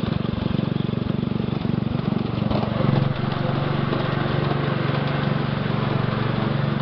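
Small engine of a ride-on scale-model switcher locomotive running steadily with a fast, even pulse, swelling briefly about three seconds in.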